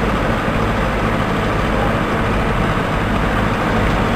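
A large engine running steadily with an even low hum.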